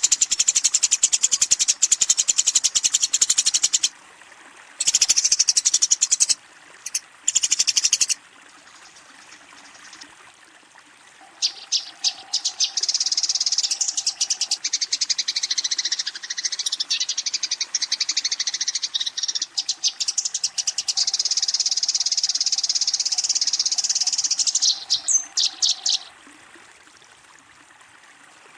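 Eurasian tree sparrow giving rapid, dense chattering chirps: the aggressive fighting call that challenges a rival. It comes in bursts, a few seconds at the start and two short ones around five and seven seconds in, then after a pause a long unbroken run from about eleven to twenty-six seconds in.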